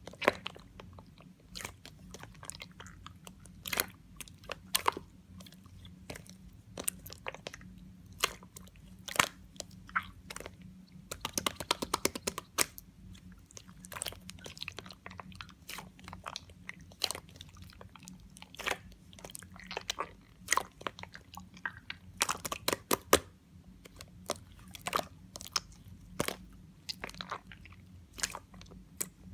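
Yellow clear slime being worked by hand, giving sharp, wet clicks and small pops at irregular intervals, with a fast run of clicks about eleven seconds in.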